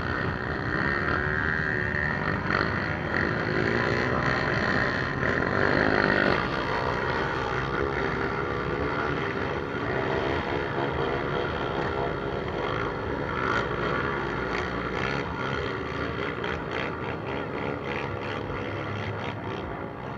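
Trail motorcycle engines running, the pitch rising and falling with revving in the first six seconds, then a steadier drone.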